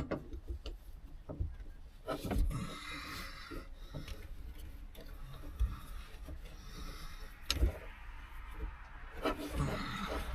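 Handling noises inside a pickup truck's cab: scattered knocks and thumps with stretches of rustling, the sharpest knock about seven and a half seconds in.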